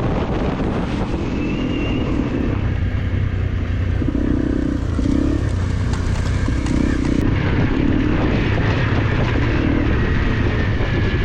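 Honda CRF250L's single-cylinder engine running as the motorcycle is ridden along an off-road track.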